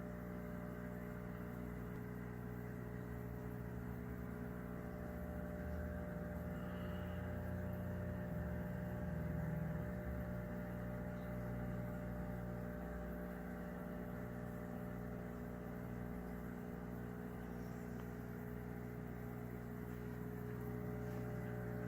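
Steady electrical hum made of several constant tones, the sound of a large aquarium's running equipment.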